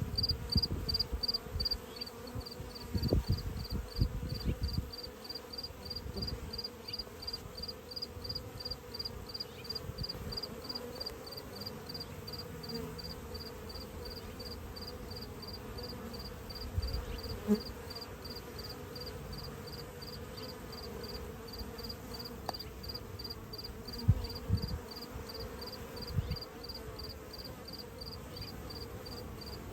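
Honeybees buzzing in a steady hum at a busy hive entrance, with a cricket close by chirping in an even, unbroken rhythm over it. A few low thumps break in now and then.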